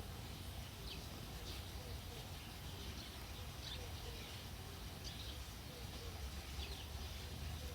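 Faint bird chirps, short and high, repeating about every second or so over a steady low hum.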